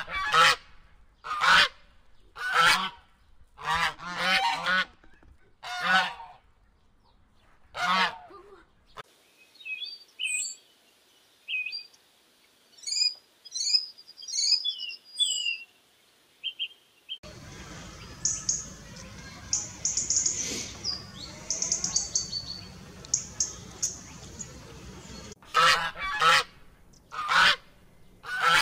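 A sea lion barking in loud, repeated calls for about nine seconds, then a yellowhammer singing short, high, repeated notes. Further high bird chirping follows over a steady hiss, and near the end loud, honking calls start again.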